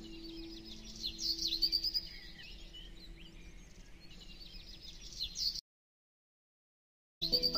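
Birds chirping quickly and repeatedly over a soft, sustained background-music note that fades away. The sound then cuts to dead silence for about a second and a half before music starts again near the end.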